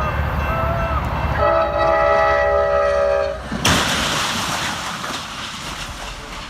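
A low rumble, then a horn chord of several notes held for about two seconds. A sudden loud rushing blast follows and fades away.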